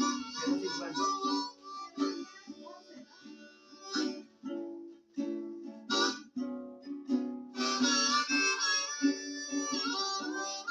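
Blues harmonica playing bent, wailing notes over guitar strumming, the instrumental intro of a blues-punk song; the harmonica swells louder and fuller in the second half.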